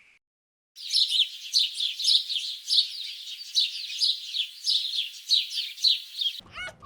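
A bird calling in a fast, even series of short, high chirps that each drop in pitch, about two to three a second. The chirps start after a moment of silence and stop abruptly near the end, where a different, lower set of sweeping calls over a low hum begins.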